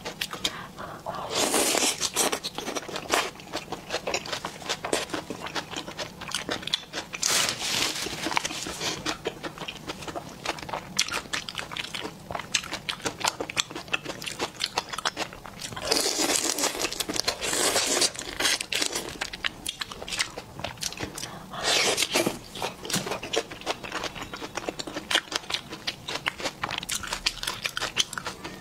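Close-miked eating sounds: chewing, biting and crunching food such as whole shrimp and braised pork ribs, a dense run of small wet clicks. Louder crunching comes about four times.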